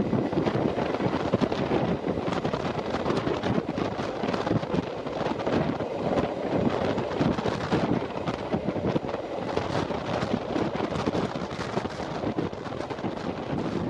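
Passenger train running at speed, its rumble mixed with wind buffeting the microphone.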